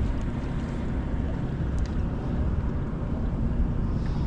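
Steady low rumble of wind buffeting the microphone on an open boat on the water.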